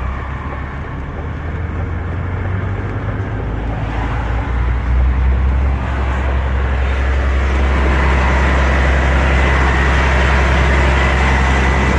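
Diesel truck engine held at raised revs. It gets louder about five seconds in and then holds steady, with a thin high whine coming in near the end. The driver calls the sound unsettling and says it was never there before.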